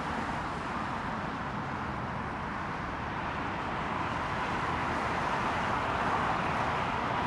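Jet airliner engine noise, a steady rumble that slowly grows louder towards the end.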